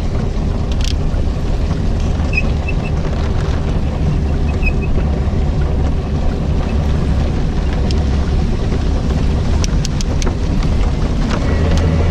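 Wind buffeting the microphone with a heavy low rumble, and the steady noise of a PEBL pedal car moving through rain, with a few sharp ticks near the end.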